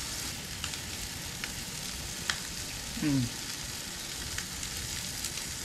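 Striper fillet frying in sausage grease in a pan: a steady sizzle with a few sharp pops.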